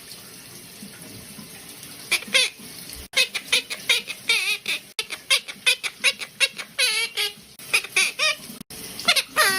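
Pet parrot chattering in quick chirps and squeaks with wobbling pitch, starting about two seconds in after a low steady hiss.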